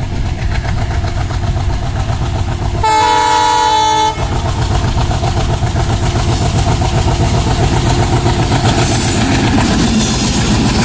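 Freight train hauled by a Bangladesh Railway 6500-series diesel locomotive running past, with a steady loud rumble of engine and wheels on the rails. About three seconds in, the locomotive sounds its horn once for about a second.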